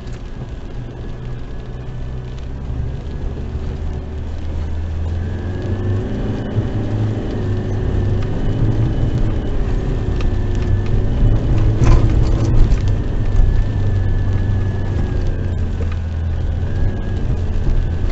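Car engine pulling at low speed up a slippery, rutted clay road, heard from inside the cabin, growing louder as it climbs. A few sharp knocks come about twelve seconds in as the car jolts over the ruts.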